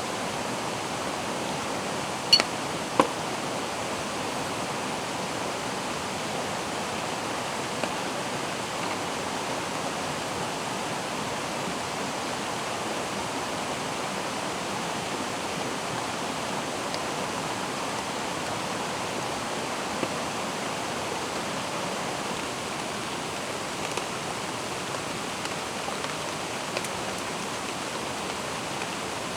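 Steady rush of a flowing mountain stream, with a few short sharp clicks, two louder ones about two and a half and three seconds in.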